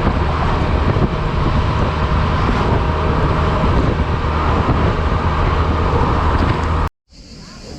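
Honda Silver Wing scooter riding at speed: a steady engine hum under a loud, even rush of road noise. It cuts off abruptly about seven seconds in.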